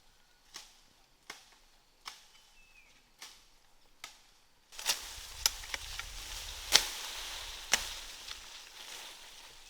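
A series of sharp chopping strikes, roughly one every 0.8 seconds. Just before halfway a steady noise sets in, and a few louder strikes stand out within it.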